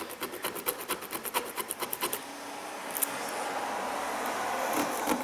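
Hand file rasping across the freshly cut edge of a metal seat bracket, deburring its sharp edges. Quick back-and-forth strokes for about two seconds give way to a steadier, continuous scraping, then quick strokes again near the end.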